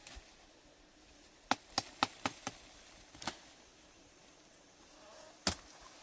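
A series of sharp, short knocks: five in quick succession about a second and a half in, another a moment later, and a single louder one near the end.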